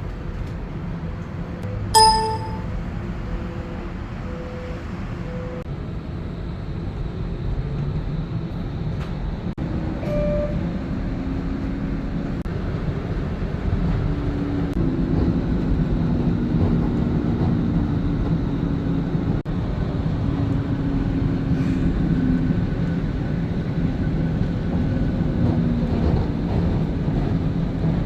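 Interior of an Eglinton Crosstown light-rail train running, a steady rumble of the car on the track. A single bright chime rings about two seconds in, and later the drive's whine climbs in pitch and holds as the train gathers speed.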